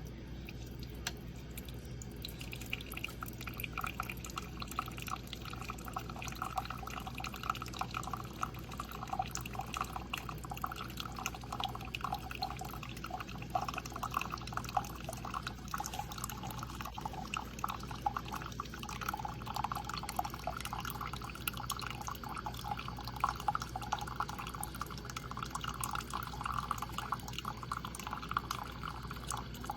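Instant Solo single-serve pod coffee maker brewing: a thin stream of coffee trickling and dripping into a cup, beginning about two seconds in, over a low steady hum.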